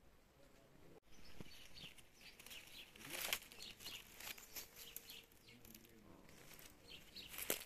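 Faint small birds chirping, with a few short sharp sounds, the loudest about three seconds in and another near the end.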